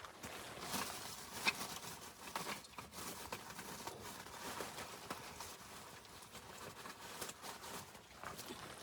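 Footsteps crunching in snow: irregular crunching and rustling, with a sharper click about a second and a half in.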